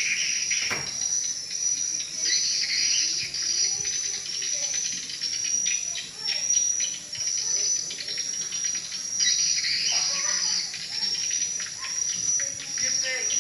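Swiftlets calling: a dense, continuous stream of high, rapid chirps and twitters that keeps on without a break.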